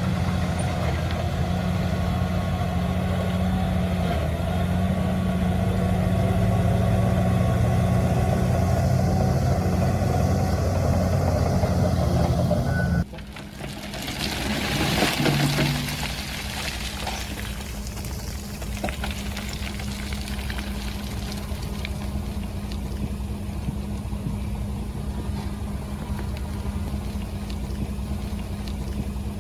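Heavy diesel engines of earthmoving machinery running steadily. The sound cuts off abruptly about halfway through, a rush of noise swells and fades over about two seconds, and then a quieter engine idles steadily.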